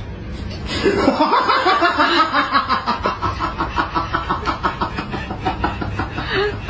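A person laughing hard in a long, even run of ha-ha bursts, about five a second, starting about a second in, over a low steady rumble.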